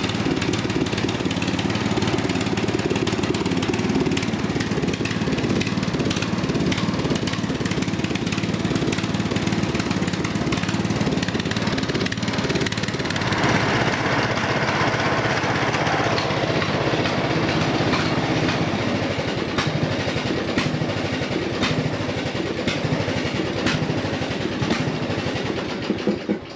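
The 18.5 hp Briggs & Stratton engine of a Craftsman DYT 4000 riding mower running steadily after a head gasket replacement, idling a little rough. About halfway through, a few seconds sound brighter.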